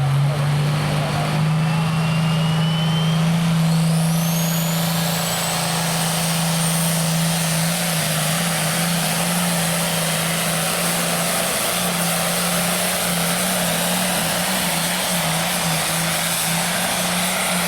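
Hot farm class pulling tractor's turbocharged diesel engine running flat out under load on a pull, its note steady and edging higher in steps. A high turbo whine rises steeply in pitch a few seconds in and then holds.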